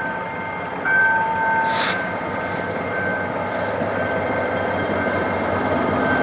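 GM GT22CW-2 diesel-electric locomotive's engine running under load, with a steady clattering drone that grows slightly louder as it pulls the passenger train away. There is a short burst of hiss about two seconds in.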